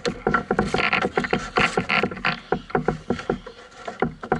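A large flathead thrashing as it is landed into a canoe: rapid, irregular knocks and thuds against the hull, mixed with bursts of splashing water.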